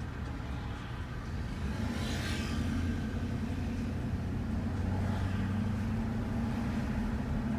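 Shuttle van driving: steady engine and road rumble that grows a little louder about two seconds in, with a brief rushing hiss at about the same moment.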